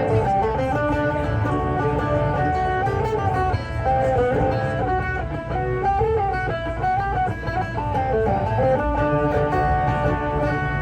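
A live rock band playing an instrumental passage, with electric guitar lines and strummed guitar over a steady low bass-and-drum backing, and no singing.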